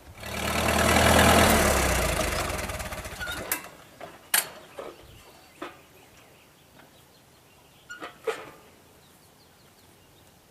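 1942 Farmall H tractor's four-cylinder engine running loud, then dying away over about three seconds. A few sharp knocks follow.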